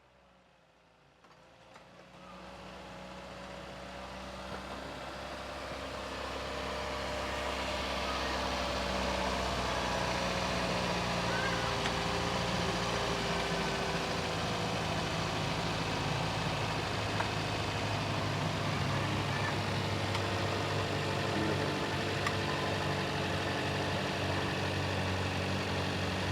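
Car engine running steadily, growing louder over the first eight seconds or so and then holding a steady note.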